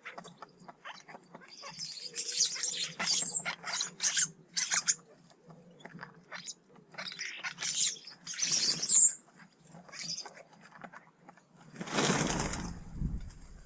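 Garden birds at feeders giving short, harsh, chattering calls, mixed with pecking and scuffling clicks. About twelve seconds in comes a louder rushing burst.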